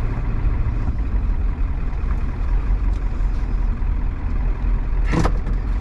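A 7.3 L Powerstroke V8 turbo-diesel engine running at low speed with a steady low rumble, and a short burst of noise about five seconds in.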